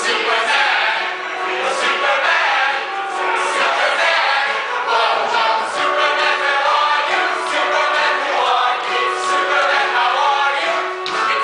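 A musical-theatre cast singing together in chorus, with instrumental accompaniment, recorded live in the theatre.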